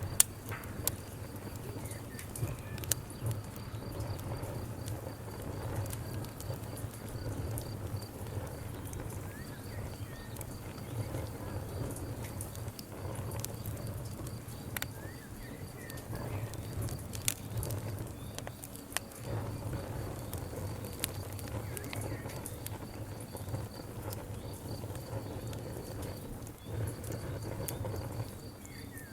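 Wood fire crackling, with sharp pops at irregular intervals over a steady low rumble. A faint, rapid, high-pitched pulsing trill runs in the background, on and off.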